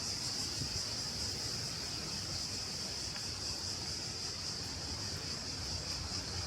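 Cicadas singing in a steady, unbroken high-pitched chorus over a low, steady rumble.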